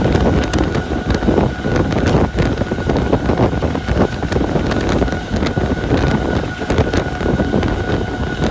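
Moving passenger train heard from on board: wind rushing over the microphone, with the wheels clattering and knocking on the rails and a faint steady whine underneath.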